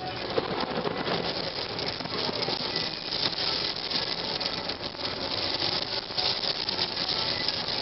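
Heavy rain pattering densely on a car's roof and windshield, a thick stream of small ticks without a break.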